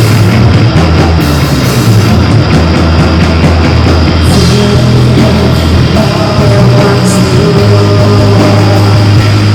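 Live rock band playing loud, dense music with electric guitar over sustained bass notes that change pitch every couple of seconds.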